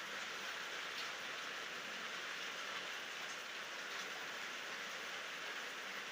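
Steady night rain falling with no thunder: an even hiss, with a few single drop ticks standing out now and then.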